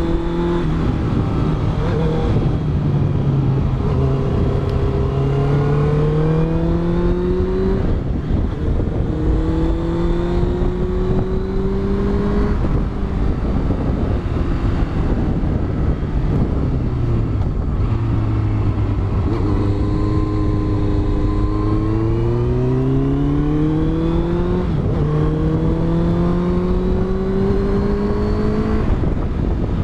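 Honda CBR650F inline-four engine with a Yoshimura exhaust, heard onboard over wind noise, pulling up through the gears: its pitch climbs, then drops at each upshift, several times over.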